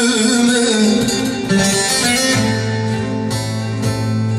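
Bağlama and guitar playing an uzun hava. A voice holds the last word of a sung line for about the first second and a half. Then the plucked strings carry on alone, with a low note held through the second half.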